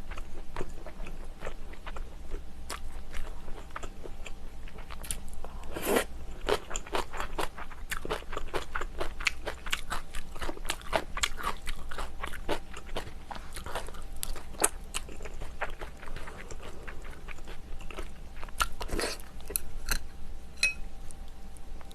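Close-miked chewing and biting of seafood stew: a steady run of wet mouth clicks and crunches, with a couple of louder knocks about six seconds in and near the end.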